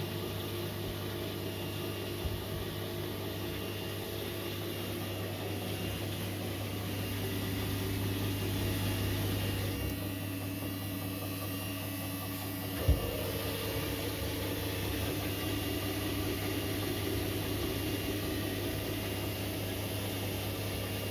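Korting KWM 47B1060 washing machine running its spin cycle: a steady, quiet hum of the motor and spinning drum, with a single brief knock about thirteen seconds in.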